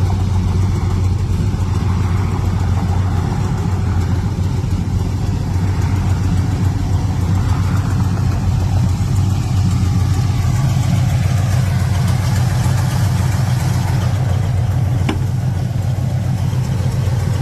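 1972 Chevrolet Chevelle's 454 big-block Chevrolet V8 engine idling steadily.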